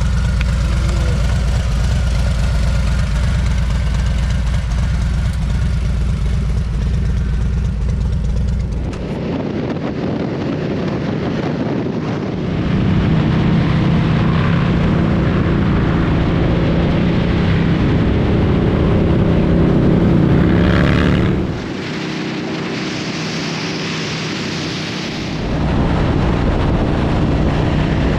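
Harley-Davidson V-twin motorcycles running at road speed. The sound shifts abruptly several times, with quieter stretches about 9 to 12 and 22 to 25 seconds in.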